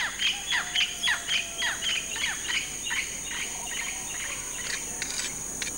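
A bird calling a rapid run of short chirps, each sliding downward, for about three seconds before fading, over a steady high-pitched insect drone.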